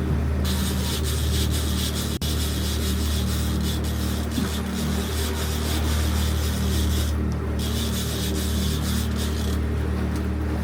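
Boat engine running with a steady low hum, under a rushing hiss of water or wind that cuts in and out abruptly.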